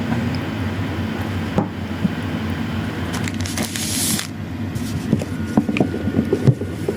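Eating and food-handling sounds of a kale salad with bread: a short hissing rustle a little past the middle, then scattered small clicks and crunches, over a steady low hum.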